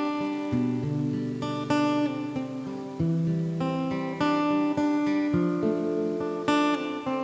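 Acoustic-electric guitar played alone, chords plucked and strummed with new chords struck about every second.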